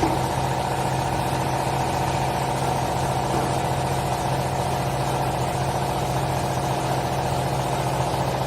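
Hydraulic clothes baler's power unit, its electric motor and pump, running with a steady hum.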